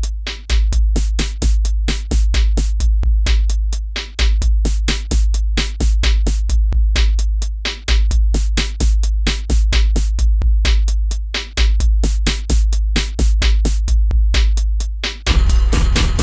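Instrumental electronic beat: a drum-machine pattern of deep booming bass notes, restruck about every two seconds, under rapid crisp hi-hat-like clicks. A fuller layered texture drops back in near the end.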